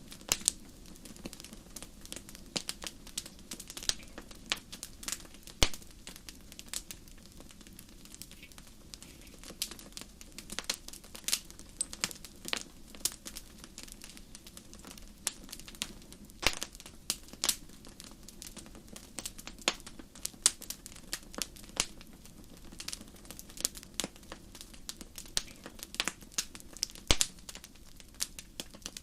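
Campfire crackling: burning wood giving irregular sharp pops and snaps, several a second, over a low steady background.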